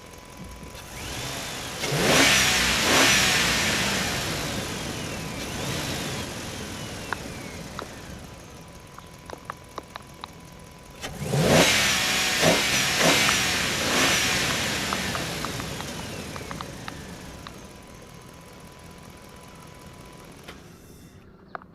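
A motor twice spins up quickly and then winds down over several seconds, with a few clicks between the runs and a faint steady hum underneath.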